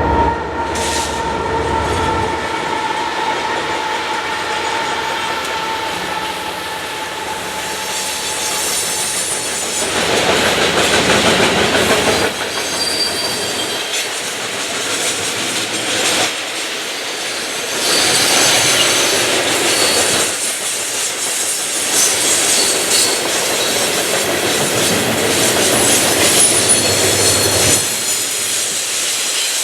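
A freight train passes close by, led by GE diesel locomotives. A horn chord sounds as it arrives and fades over the first several seconds, dropping slightly in pitch. After that, a long string of loaded grain hopper cars rolls past with steady clickety-clack over the rail joints and high-pitched wheel squeal.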